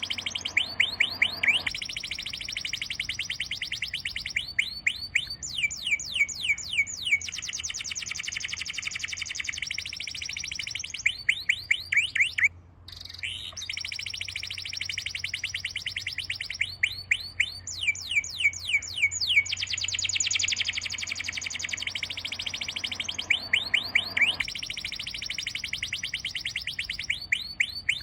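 Birds singing: bursts of rapid, high chirps, each sliding downward in pitch, come every few seconds over a steady high trill. The sound drops out briefly about halfway through.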